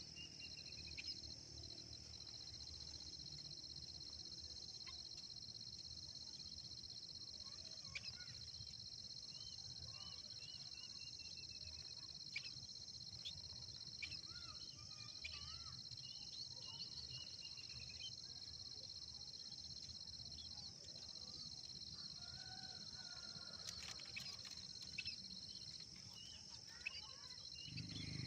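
Steady, high-pitched insect drone, with short bird chirps scattered through it, including a quick run of chirps about halfway through.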